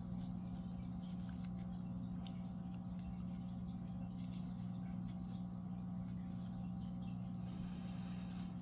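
Crochet hook and yarn rustling with faint small scratchy ticks as single crochet stitches are worked, over a steady low electrical hum.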